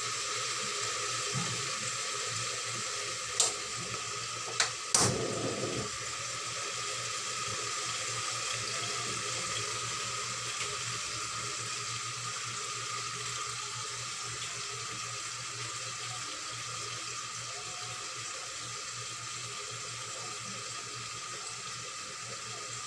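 Chicken wings frying in hot oil under the lid of an aluminium wok: a steady sizzle, with three sharp pops or clicks about three to five seconds in.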